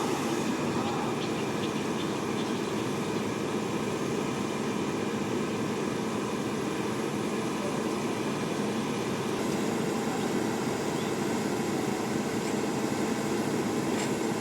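Steady low rumble of heavy construction machinery running, most likely the diesel engine of the mobile crane making the lift.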